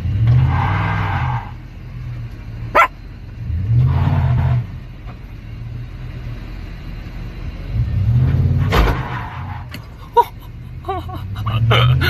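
A car engine running and surging up three times, with a few short, sharp sounds and brief yelps between.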